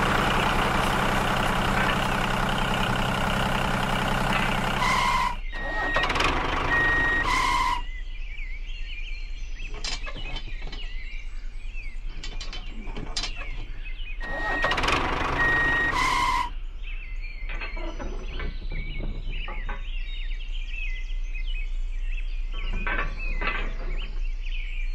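A miniature model tractor's engine sound running steadily for about five seconds, then short beeping tones twice, with small clicks and taps between them as its metal ball hitch is handled and a trailer is coupled on.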